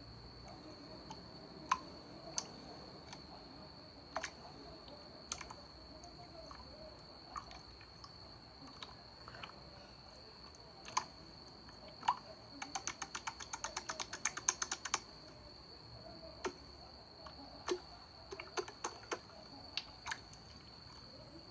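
Scattered sharp clicks, with a fast run of about ten clicks a second near the middle, like typing, over a steady high-pitched whine.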